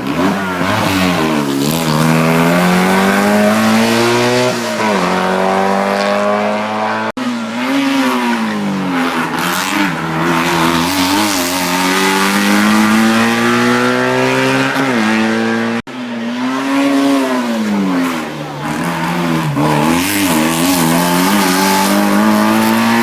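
Hill-climb race car engines revving hard, pitch climbing through each gear and dropping at the shifts. The sound breaks off abruptly twice, giving three separate runs.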